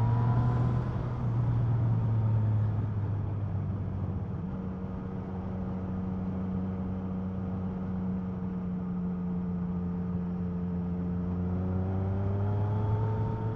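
Motorcycle engine running under way along with a rush of wind. The engine note drops after a couple of seconds, holds steady, and climbs again near the end.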